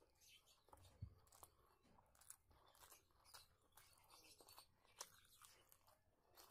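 Faint close-up mouth sounds of someone chewing rice and egg curry eaten by hand: soft wet smacks and clicks, with a sharper click about a second in and another about five seconds in.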